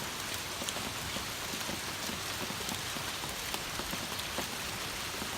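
Heavy, torrential rain pouring down and pattering on surfaces as a steady hiss, with many individual drops ticking close by.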